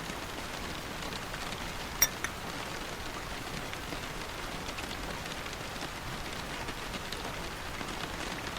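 Steady rain falling and pattering on a surface, with a sharp tap about two seconds in followed by a fainter second tap.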